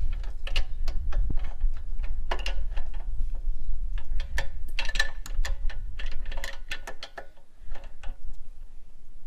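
Irregular metallic clicks and clinks with short ringing, from an adjustable spanner working on the top nut of a Harley fork tube, over a steady low rumble.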